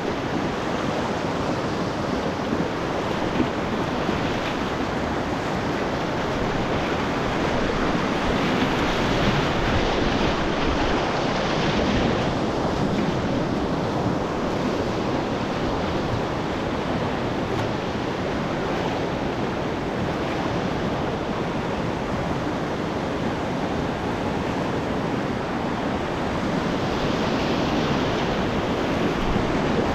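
Whitewater rapids of a class III–IV river rushing steadily, a continuous loud wash of water with no breaks.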